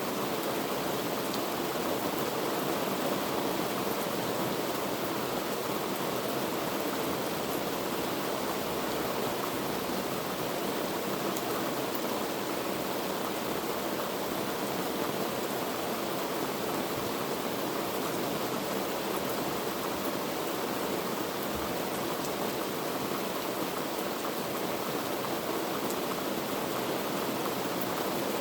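Heavy rain falling steadily, an even wash of rain noise.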